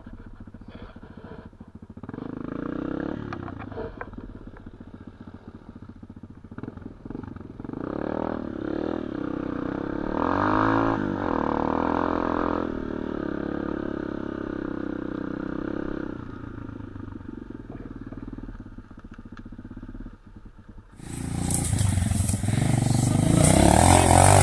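Small off-road motorcycle engine revving up and dropping back several times, as on a climb through rough ground. Near the end the sound becomes suddenly louder, with a hiss over the engine.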